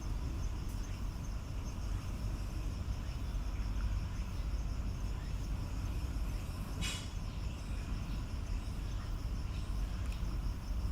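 Insects chirping in a steady, high, pulsing trill over a continuous low rumble, with one brief hiss about seven seconds in.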